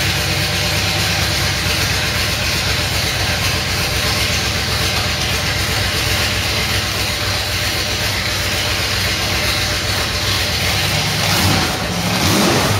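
Aluminum-block 482 side-oiler V8 on Weber carburetors idling steadily during its first-ever start-up, with a brief rise and fall in revs near the end.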